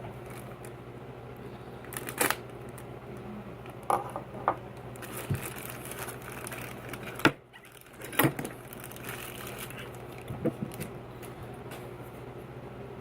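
Small plastic figure pieces being handled and fitted together: a few scattered clicks and taps over a steady low hum.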